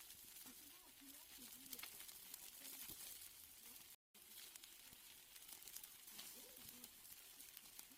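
Steak sizzling faintly on a grill, with a steady hiss and scattered small crackles and pops. The sound drops out for an instant about halfway through.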